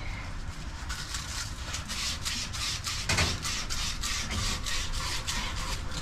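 Rhythmic scrubbing strokes, about four a second, of abrasive on copper pipe, cleaning it before flux and solder, with one heavier knock about halfway through.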